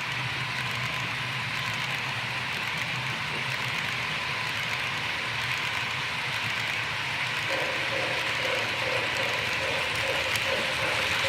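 Model train running past on the layout track: a steady whir of its motor and wheels on the rails. A pulsing hum joins in about seven and a half seconds in.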